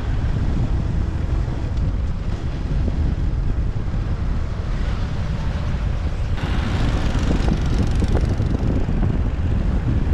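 Wind buffeting the microphone over the low rumble of a motorbike riding through city traffic. A brighter hiss of road and traffic noise comes in suddenly about six seconds in.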